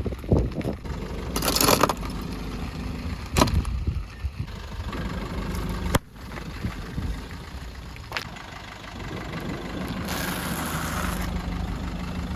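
A car engine running low and steady, with a few short sharp cracks of earthen pots breaking under the car.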